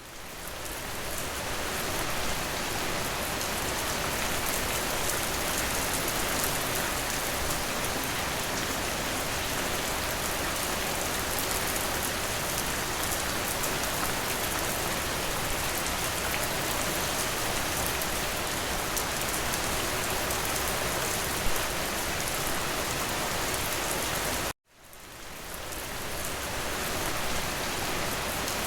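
Steady, heavy rain, a dense even patter, fading up at the start. About 24 seconds in it cuts out suddenly for a moment, then fades back in.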